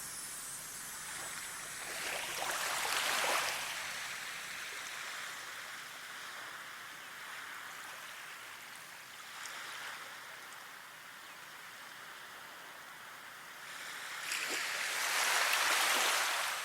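Steady rush of running water that swells louder twice, about three seconds in and again near the end, with a smaller swell in between.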